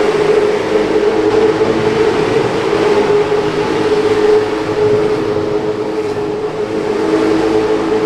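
A field of late model race cars running laps on the track, their engines blending into a loud, steady drone at high revs.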